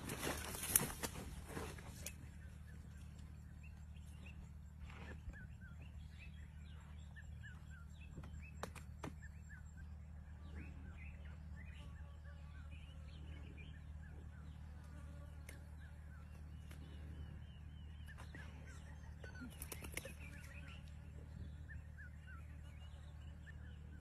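Faint birdsong: many short chirps and whistles over a steady low hum, with a louder rustling burst in the first two seconds.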